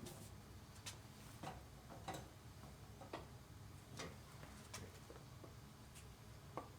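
Faint, scattered light clicks and taps, about one every half second to a second, as objects are handled on a work surface while a strop is being set up for the knife.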